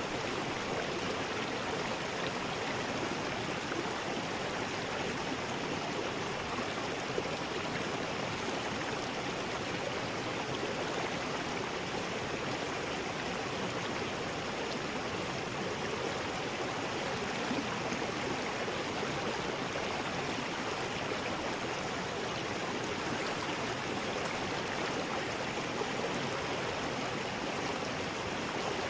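River rapids: water rushing steadily over rocks, a continuous even rush with no let-up.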